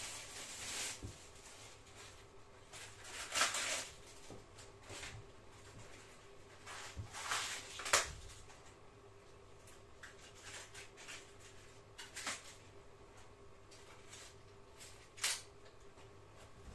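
Kitchen handling noises: occasional short rustles and a few sharper knocks as the cabbage and utensils are handled before chopping, over a faint steady hum.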